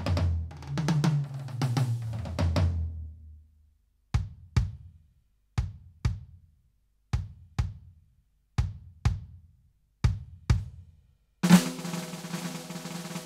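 Roland TD-17KVX V-Drums electronic drum kit sounds being played: a fill across the toms that falls in pitch, then a short pause. Then pairs of single drum hits about every second and a half, and near the end a loud hit that runs into a sustained roll.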